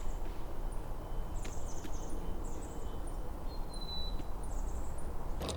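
Small birds calling: repeated short, high chirps and twitters, with one clear whistled note a little before the four-second mark, over a steady low background rumble.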